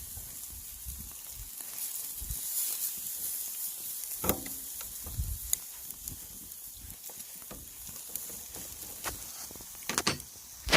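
Marinated pork bulgogi sizzling on a wire grill over charcoal: a steady hiss, broken by a few sharp knocks, one about four seconds in and two louder ones near the end.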